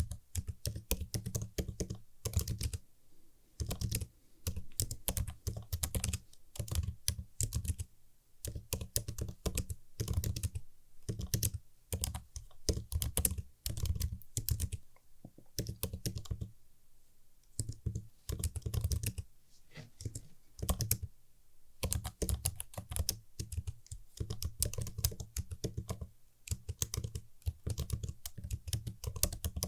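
Typing on a computer keyboard: quick runs of crisp key clicks with short pauses between bursts.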